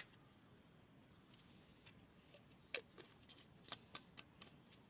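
Near silence, broken by a sharp click at the very start and a few faint, scattered clicks in the second half.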